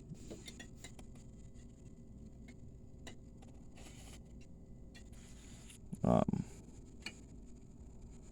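Quiet room with faint scattered clicks and ticks, and one short voiced sound from a person, like a brief grunt or syllable, about six seconds in.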